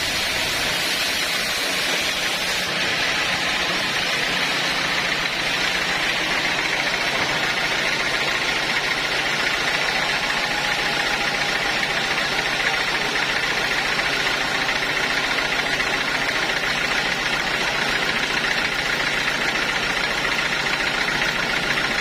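Sawmill saw running steadily: a continuous mechanical drone with a faint high whine over it.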